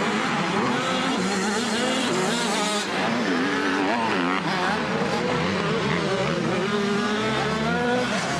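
Several 85cc two-stroke motocross bikes racing, their engines revving up and down over one another.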